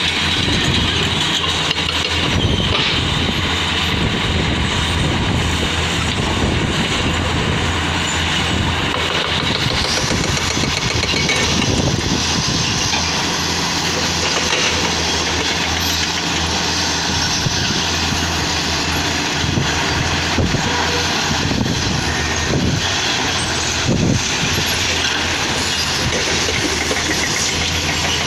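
Diesel engines of heavy earthmoving machines, bulldozer and excavator, running steadily at work, with a few short knocks.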